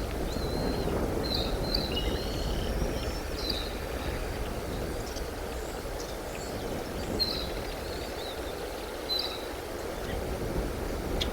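Scattered short, high bird chirps, a few at a time, over a steady low rumble of outdoor background noise.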